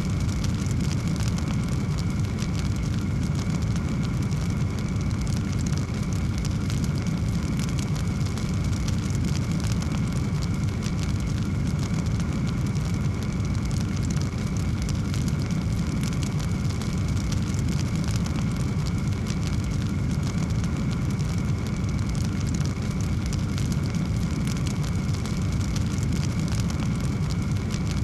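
Wood fire burning in a fireplace: a dense run of small crackles and pops over a steady low rumble of the flames.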